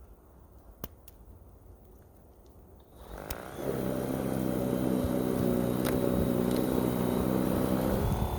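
Litheli 40V battery-powered single-stage snow blower's brushless motor and auger starting up about three seconds in, spinning up within a second and running steadily with a whine, its pitch dipping briefly near the end. A single click comes about a second in.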